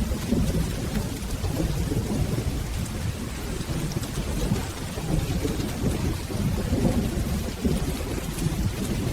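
Steady rain with a low, continuous rolling rumble of soft thunder underneath, and faint scattered ticks of drops in the hiss.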